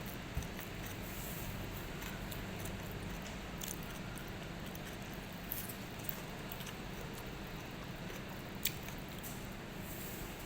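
A person chewing and biting food close to the microphone, with a few sharp crunchy clicks scattered through, over a steady low hum.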